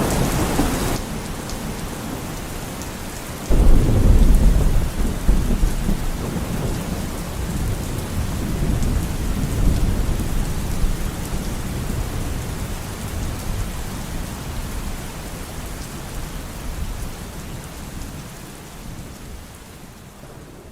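Rain falling in a thunderstorm. About three and a half seconds in, a thunderclap breaks into a long low rumble that slowly dies away, and the storm fades steadily toward the end.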